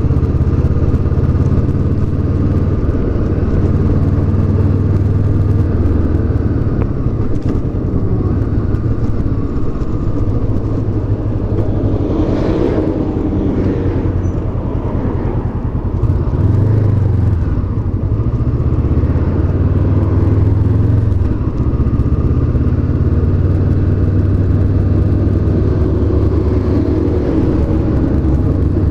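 Honda CB500X's 471 cc parallel-twin engine running steadily under way, its note dipping briefly about halfway through.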